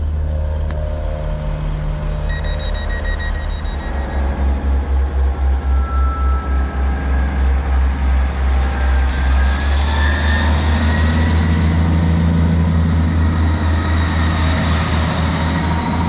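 Diesel passenger train running with a heavy low rumble, its loudness pulsing about twice a second for a few seconds, then a whine that rises in pitch about halfway through.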